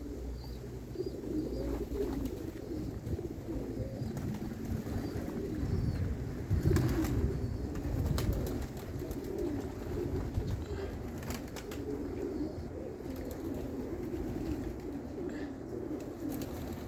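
Many domestic pigeons cooing continuously, with wind rumbling on the microphone and a few sharp clicks about seven, eight and eleven seconds in.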